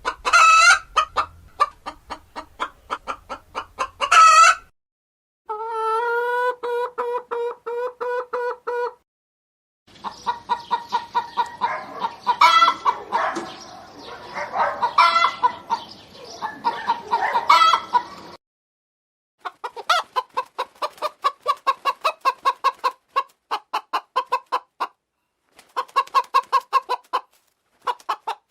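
Domestic hens clucking in several spliced recordings, each ending in an abrupt cut: quick rhythmic clucks of about four or five a second with now and then a louder, higher squawk, and, a few seconds in, a run of longer held calls.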